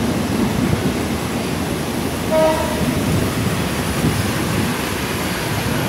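Passenger train running along the track, heard from on board: a steady rumble, with one brief higher tone about two and a half seconds in.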